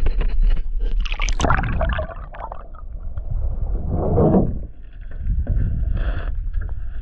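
Canoe paddling on a river: paddle strokes splashing and knocking against the hull, a cluster of knocks in the first two seconds and a louder swash about four seconds in, over a steady low rumble.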